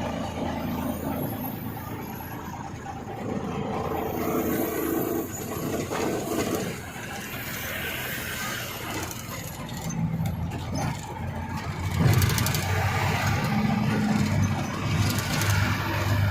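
Heavy Tata trucks' diesel engines running as they drive past on a hill road, rising and falling in loudness, with short high hisses in the second half.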